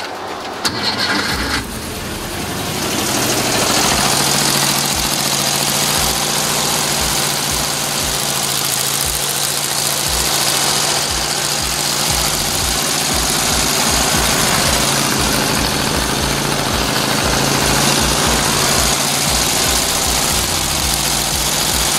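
The 1963 Volkswagen dune buggy's air-cooled flat-four engine cranks and catches about two seconds in, then runs steadily through its short open exhaust pipes. It is running on its own after new fuel lines and a carburettor clean.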